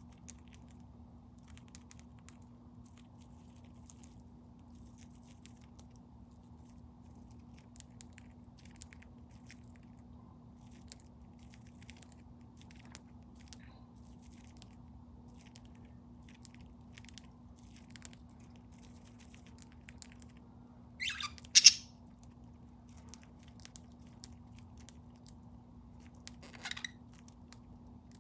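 Budgie nibbling and cracking at a treat: many faint, scattered clicks and crunches over a steady low hum. A short, much louder sharp crackle comes about two-thirds of the way through, and a smaller one near the end.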